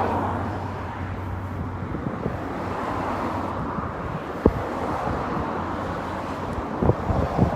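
Outdoor ambience of motor noise and wind on the microphone. A steady low motor hum fades away in the first second, leaving an even rumble, with a few short knocks about halfway through and near the end.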